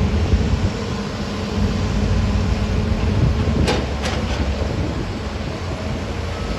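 A motor vehicle's engine running steadily with a low rumble. Two short, sharp squeaks come about halfway through.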